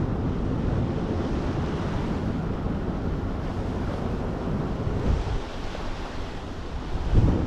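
Wind buffeting the microphone and water rushing and splashing past a windsurf board sailing at speed, with a brief louder gust or slap about seven seconds in.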